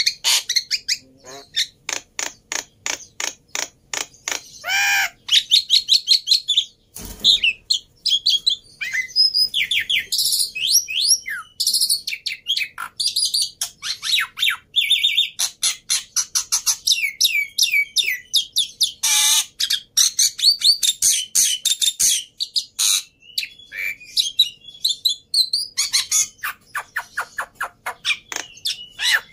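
Black-winged starling (jalak putih) singing continuously in full song: fast runs of sharp clicking notes mixed with whistled rising and falling phrases and harsh squawky chatter.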